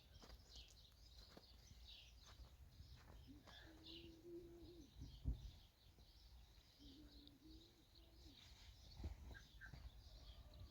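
Faint birds chirping over near-quiet outdoor background, with two low drawn-out tones a few seconds apart and a soft thump about halfway.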